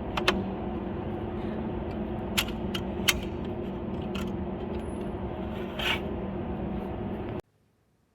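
Steady low mechanical hum with scattered sharp clicks and knocks, cutting off abruptly about seven seconds in.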